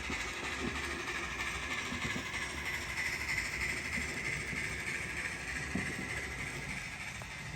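Model train running on the layout track: a steady whirring with a few faint clicks.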